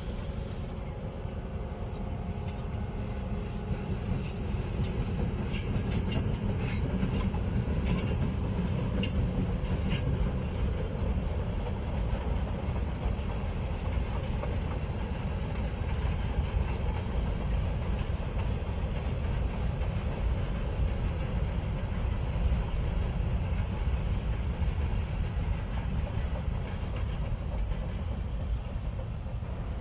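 A Rapid City, Pierre and Eastern diesel freight train rolling past with steady low running noise. A run of sharp metallic clicks comes in the first ten seconds or so, like wheels passing over rail joints.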